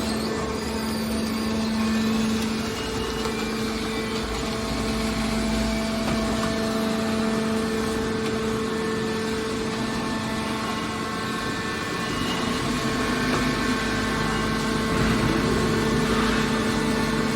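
Hydraulic metal baler's power unit running with a steady hum.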